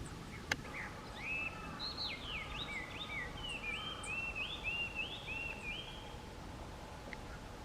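A songbird singing a phrase of clear whistled notes that rise and fall, lasting about five seconds. A single sharp click comes about half a second in.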